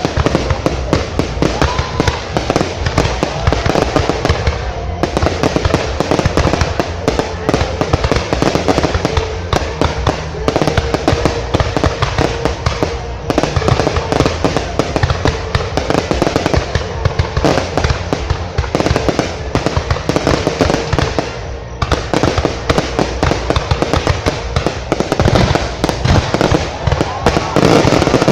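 Fireworks display: a dense, continuous barrage of bangs and crackles that goes on without a break.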